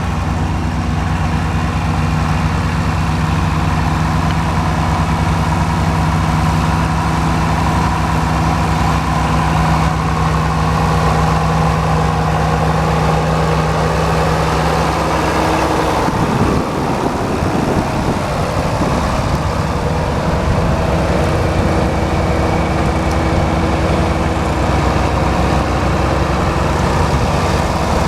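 John Deere 4230's six-cylinder diesel engine running steadily at idle. Just past halfway its speed changes briefly, then it settles back to a steady run.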